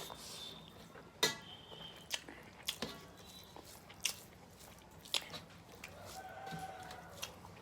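Close-up eating sounds: chewing and mouth clicks while eating a meal of rice and fish curry, with sharp little smacks and clicks scattered every second or so.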